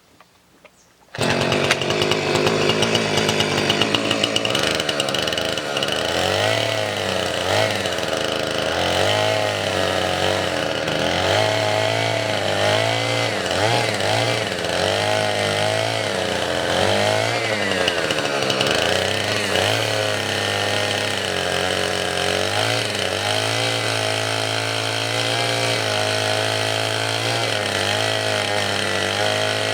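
Gasoline chainsaw cutting firewood, starting abruptly about a second in. Its pitch rises and falls again and again as it works through the wood, then holds steadier near the end.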